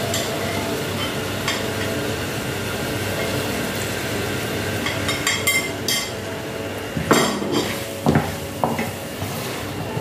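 Cooking at the stove: a utensil stirring and clinking against a pan over a steady sizzle of frying, with a few sharper clinks in the second half.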